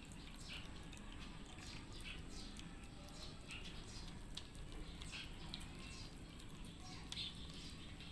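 Cats eating a mix of wet food and dry kibble: faint, irregular small crunches and wet chewing clicks, a few a second.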